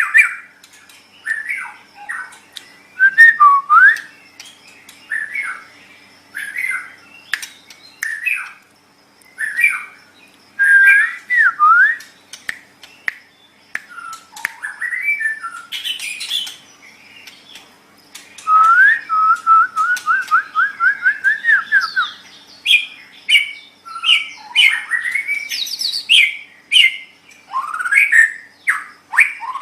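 White-rumped shama singing a varied song of short whistled phrases, sweeps, chirps and harsh notes. About two-thirds of the way through comes a fast run of about ten repeated notes rising slightly. A faint steady hum sits underneath.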